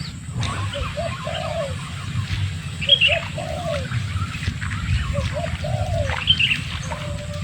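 A dove cooing a repeated phrase, two short notes and then a longer one, three times about two seconds apart. Other birds chirp higher above it, over a steady low rumble.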